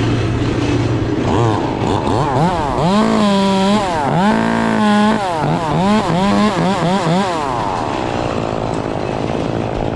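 Two-stroke chainsaw revved to full throttle twice, each time for about a second, then blipped quickly several times before settling back toward idle near the end.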